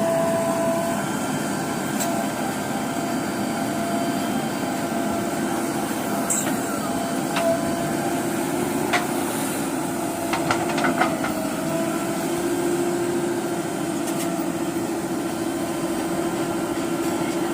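JCB 3DX backhoe loader's diesel engine running steadily, with a few sharp knocks in the middle from the machine working.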